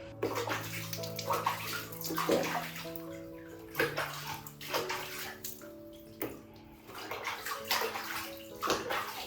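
Water splashing and sloshing in a tub in irregular splashes, as a baby monkey is being bathed, over gentle background music.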